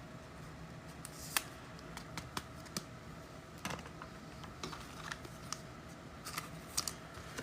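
Trading cards being handled: light, scattered clicks and taps as cards are flipped through and set down.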